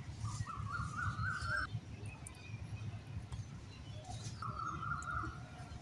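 A bird calls twice in the background: first a wavering call that climbs in pitch for over a second, then a steadier call of about a second near the end. A low steady hum runs underneath.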